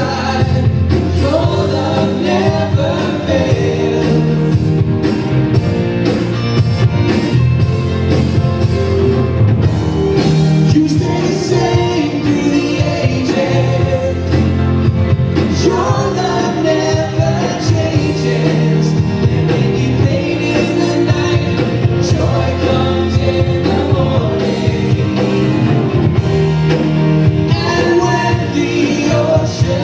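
Live church worship music: a band playing a song with voices singing over a steady beat.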